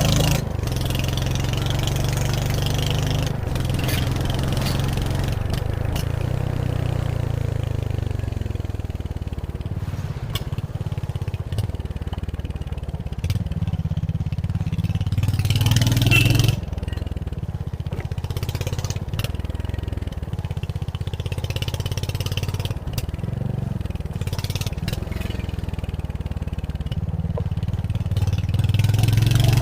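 Royal Enfield Hunter 350's single-cylinder engine running under way, with the throttle rising and easing off. It gets louder towards about 16 seconds, then drops off suddenly, and builds again near the end, with occasional brief clicks over the steady low engine note.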